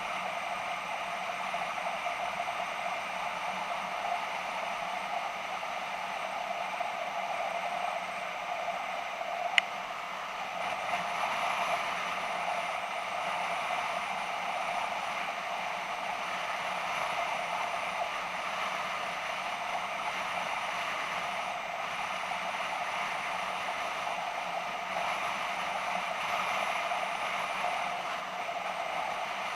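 Steady riding noise of a BMW F650GS motorcycle under way: engine and rushing air heard from a camera mounted on the bike, with one sharp click about ten seconds in.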